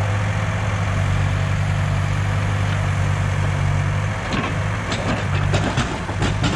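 Heavy machine's diesel engine running steadily at a low, even pitch. A series of short knocks and clanks starts about two-thirds of the way through.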